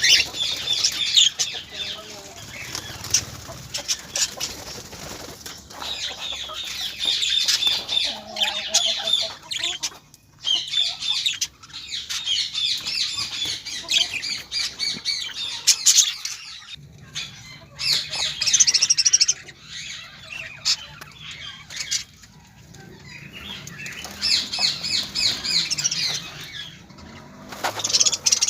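Birds chirping with wings fluttering, in spells of a few seconds separated by short lulls.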